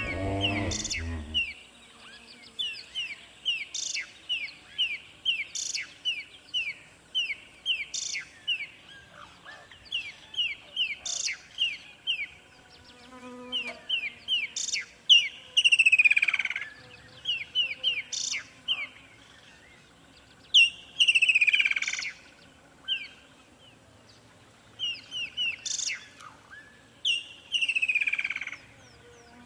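Birds chirping: a steady run of short, quick chirps, with a louder call that slides downward in pitch about 15, 21 and 27 seconds in.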